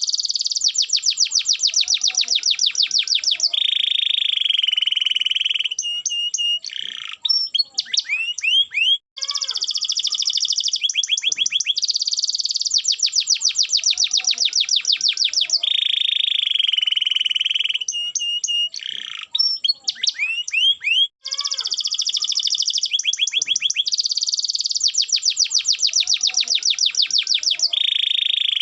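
Domestic canary singing: fast, even trills alternate with a buzzy rolling phrase and short upward-sweeping notes. The same song sequence repeats about every twelve seconds.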